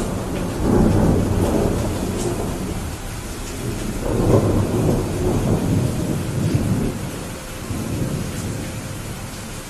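Steady rain with rolling thunder rumbling low. The rumble swells about a second in and again around four to five seconds, then eases off.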